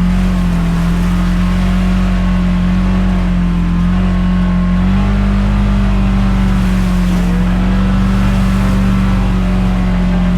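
Side-by-side UTV engine running steadily under way, holding one even note that steps up slightly in pitch about halfway through.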